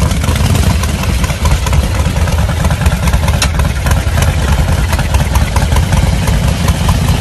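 Custom vintage motorcycle engine idling steadily with a fast, even pulse.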